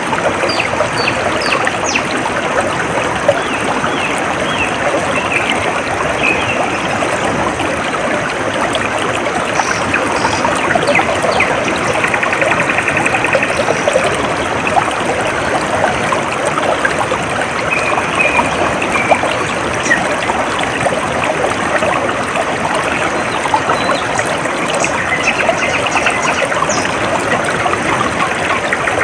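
Shallow stream running steadily over stones, a continuous babble of small splashes and trickles. Birds chirp faintly over it now and then, with a short buzzy trill about halfway through.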